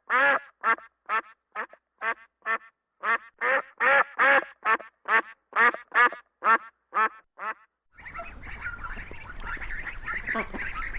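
A duck quacking in a quick series of short, loud quacks, about two or three a second, which stop a little over seven seconds in. After that comes a steady background hiss and hum with faint chirping calls.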